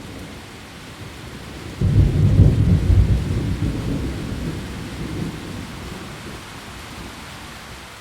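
Steady heavy rain falling on leaves, with a deep rumble of thunder breaking in about two seconds in, loudest for a second or so and then slowly fading away.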